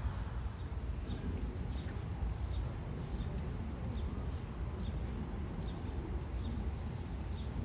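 A bird chirping over and over: a short, high chirp about every 0.7 seconds, over a steady low rumble.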